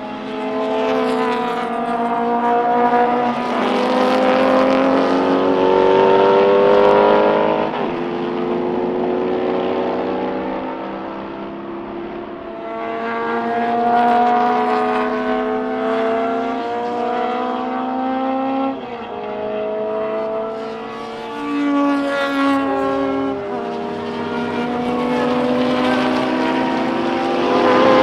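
Racing sports car engines at full throttle on track, their pitch climbing through the revs and dropping sharply at each gear change, several times over, with more than one car passing.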